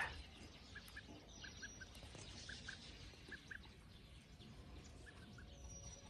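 Quiet outdoor background with faint bird chirps: short high chirps scattered throughout, and two thin, high whistles, one early and one near the end.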